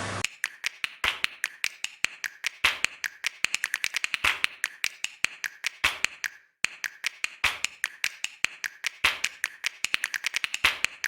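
A rapid, uneven run of sharp clicks and taps, about five a second, on an otherwise silent track, broken by a brief pause about six and a half seconds in.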